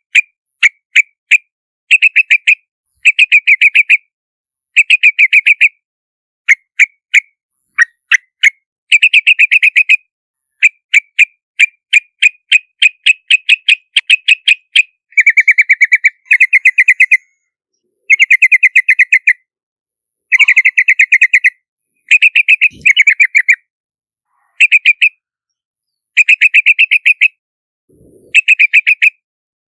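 Yellow-vented bulbul calling in rapid bursts of short chattering notes, about ten notes a second. Each burst lasts from a fraction of a second to about a second and a half, with dead-silent gaps between.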